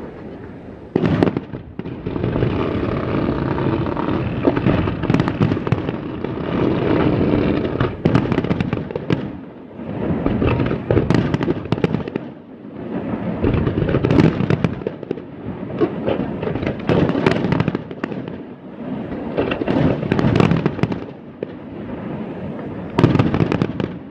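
Fireworks display going off in a continuous barrage: sharp bangs of shells bursting every few seconds over a steady crackling and popping.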